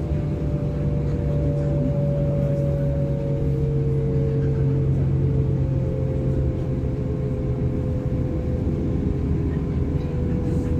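Interior of a DB Class 425 electric multiple unit on the move: a steady rumble of wheels and running gear, with a whine of several traction-motor tones that slowly fall in pitch as the train slows.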